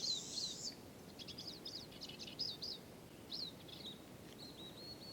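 Small songbirds calling: short, high chirps, many in quick succession around the middle, and a brief trill near the end.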